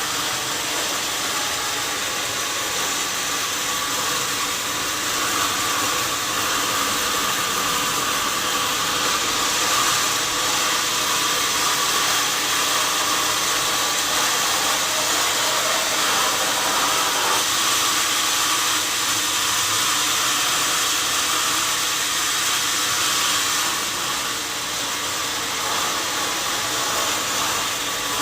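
Sawmill saw running steadily: a continuous loud hissing whine with a faint steady tone and no breaks.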